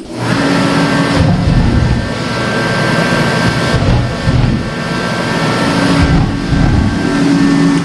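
Diesel engine running loudly, its level dipping and swelling as it is revved.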